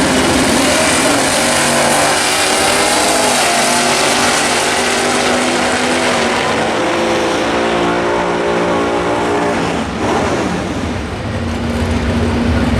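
Drag racing cars making a pass at full throttle, their engines running loud and steady. The sound dips briefly around ten seconds in, then builds again near the end.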